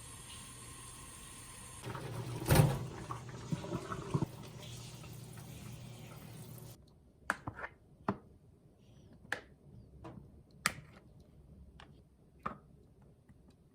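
Steady rushing of running water, with a few loud knocks over it, cutting off suddenly about seven seconds in. After that come scattered light clicks and taps.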